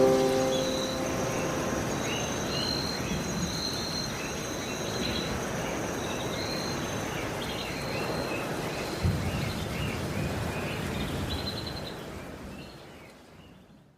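Outdoor ambience: a steady hiss with a high insect-like drone and scattered bird chirps, fading out near the end.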